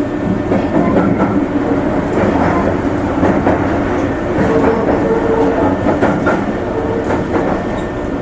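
Meitetsu electric train running, heard from inside the car: a steady rumble of wheels on rail with scattered clicks over rail joints and a faint steady tone.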